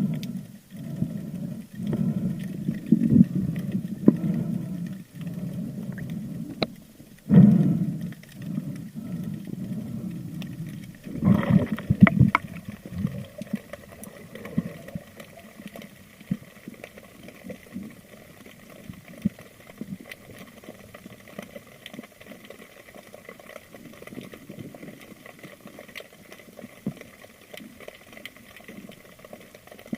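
Water sloshing and gurgling around an underwater camera, with uneven low rushing surges through the first half, then a quieter stretch of scattered faint crackling ticks.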